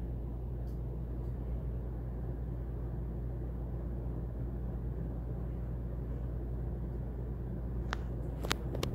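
52-inch Regency ceiling fan running on high: a steady low whir of moving air and motor hum, with a few faint ticks, clustered near the end, that the owner puts down to its repaired, JB-welded blade bracket.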